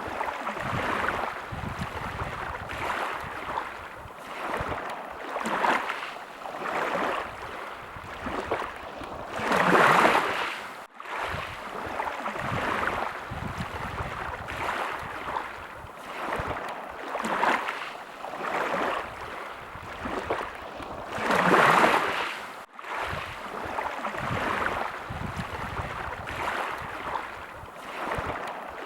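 Sea waves lapping and washing in, rising and falling in repeated swells, the biggest about ten seconds in and again a little past twenty seconds. The sound cuts out for an instant twice, just after each of those swells.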